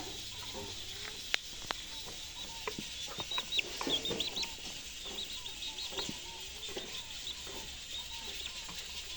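Hen clucking softly again and again, with chicks peeping in a busy run in the middle. Two sharp ticks come early on.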